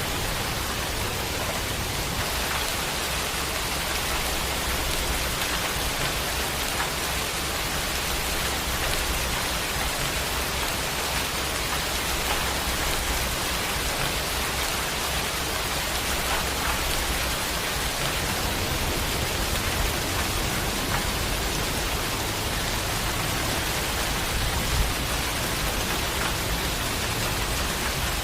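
Steady rain falling, an even hiss with scattered drop ticks and one sharper tick near the end.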